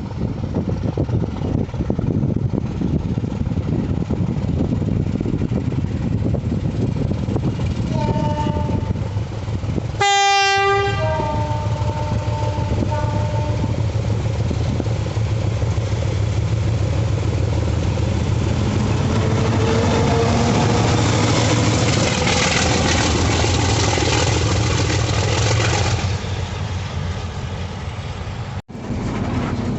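Diesel engine of an ALCO RSD-16 locomotive, a turbocharged 16-cylinder ALCO 251, running with a steady low rumble. About ten seconds in, a locomotive air horn sounds briefly as a chord, with shorter, lower notes for a couple of seconds after. From about the middle the engine runs louder and harsher with a faint rising whine for several seconds before easing back, and the sound breaks off for an instant near the end.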